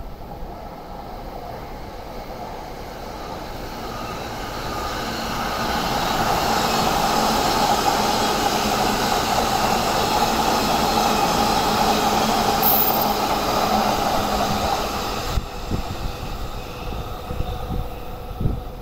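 JR E751 series electric train passing on the nearby tracks. The running and wheel-on-rail noise builds over a few seconds and holds steady with a faint tone in it. About fifteen seconds in it drops off suddenly, followed by a few thumps.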